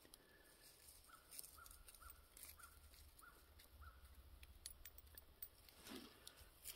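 Near silence, with a faint bird calling a run of about six short, evenly spaced notes, and a few faint handling clicks.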